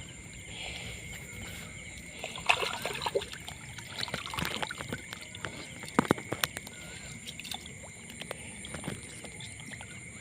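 Water sloshing and splashing with a few sharp knocks, the sharpest about six seconds in, over a steady high drone of insects.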